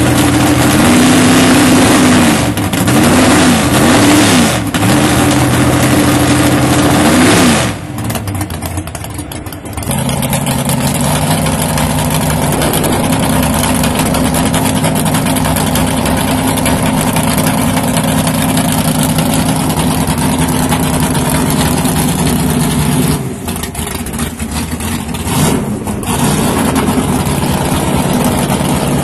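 Drag race car engines running loudly. Revs rise and fall several times over the first seven or eight seconds, the sound drops briefly, and then the engine runs steadily at a lower pitch.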